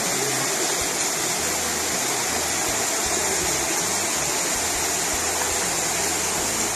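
Steady rush of flowing and falling water, an even noise that holds without a break.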